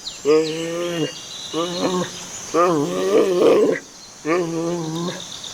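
Giant panda vocalization sound effect: four drawn-out pitched calls, each about half a second to a second long, the third call the longest.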